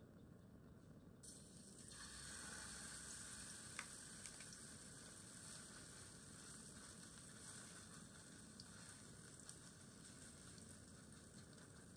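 Food sizzling in a hot wok on a portable gas stove, starting suddenly about a second in as the mixture goes into the pan, with a few light clicks of a metal spoon against the wok.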